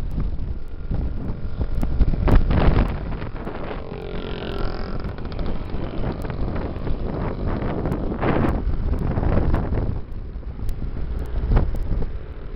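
Wind buffeting the microphone over motorcycle engines running, with a brief higher-pitched tone about four to five seconds in.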